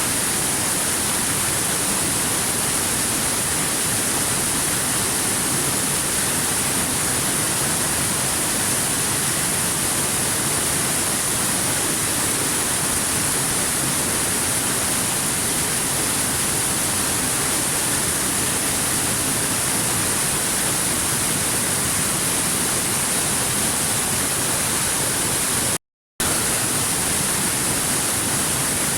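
Waterfall: a steady, even rush of falling water with a strong hiss, cutting out completely for a split second near the end.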